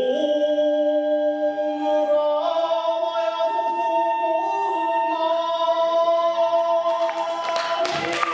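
Kagura chant: a single voice singing long held notes that step up and down in pitch, with no accompaniment at first. Percussion clashes and strikes come in near the end.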